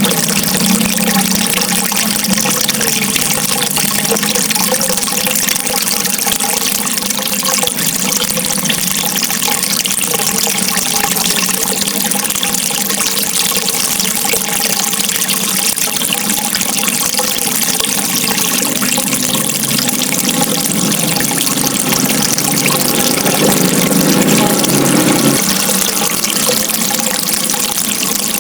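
Running water rushing steadily, an even hiss with no breaks. A deeper rumble swells for a few seconds near the end.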